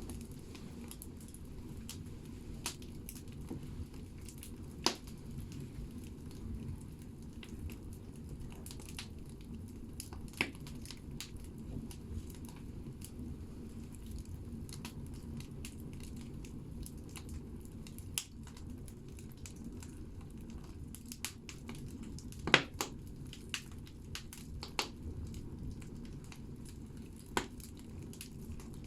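Firewood logs burning in a bathhouse stove's firebox: a steady low rumble of the fire with scattered sharp crackles and pops, the loudest a quick cluster about three-quarters of the way through.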